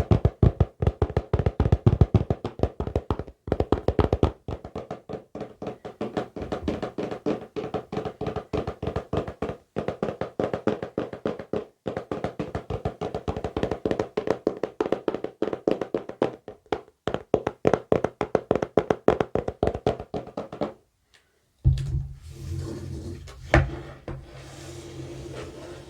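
Rapid fingertip tapping on a hard object, many taps a second in quick runs with brief pauses. Near the end it stops, and after a moment of quiet a steady low hum comes in with a single sharp knock.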